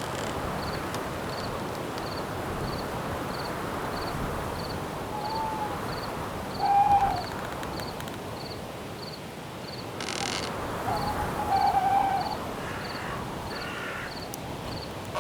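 Night forest ambience: a steady wind hiss with crickets chirping about one and a half times a second. An owl hoots a few times, once around five to seven seconds in and again around eleven to twelve seconds, and these hoots are the loudest sounds. A short harsh call comes just before the second set of hoots.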